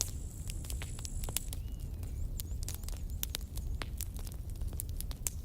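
Campfire crackling: burning wood gives off irregular sharp pops and snaps over a low steady rumble from the fire.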